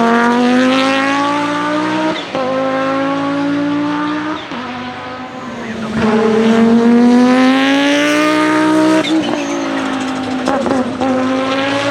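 1992 Audi S4 IMSA GTO's 2.2-litre turbocharged five-cylinder racing engine accelerating hard. Its pitch climbs and drops back with upshifts about two, four and nine seconds in, and it is quieter for a moment between about four and six seconds.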